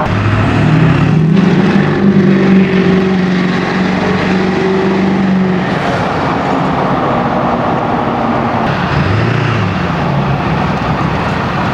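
7.3L Powerstroke diesel pickup with a turbo-back, side-exit exhaust, heard from inside the cab with the windows down while driving. The engine note climbs as the truck accelerates over the first couple of seconds and holds, then drops off about halfway through. A shorter rise and fall follows near the end, with wind and road noise throughout.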